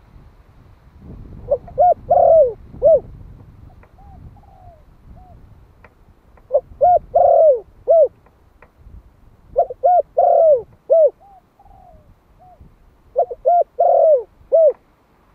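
Spotted dove (Malay strain) singing its calling song: four loud cooing phrases a few seconds apart, each of about four notes with a longer note near the end. Fainter coos sound in the gaps between phrases.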